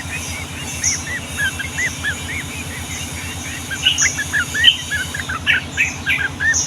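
Yellow-vented bulbul song: a long, rapid run of short arched whistled notes with no break, in the rolling style bird keepers call 'ropel'. A steady low throbbing hum runs underneath.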